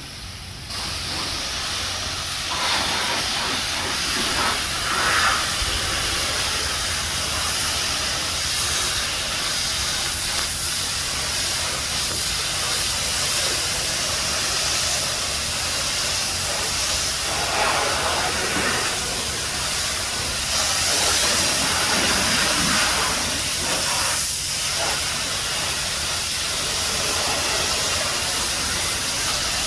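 High-pressure spray wand of a self-service car wash hissing steadily as it sprays plain water onto a car. The hiss swells and eases a little as the spray moves over the surfaces.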